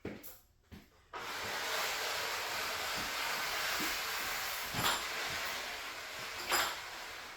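A steady hiss that starts abruptly about a second in and carries on for about six seconds, with two brief sharper sounds in its second half.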